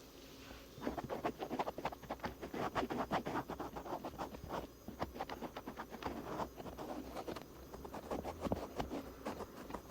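Cotton swabs rubbing and scratching over the outer ear in quick, close strokes, starting about a second in, with a brief pause midway.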